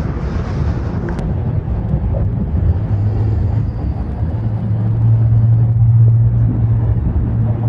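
Vehicle engine running with a steady low hum over rumbling wind noise, growing louder about five seconds in.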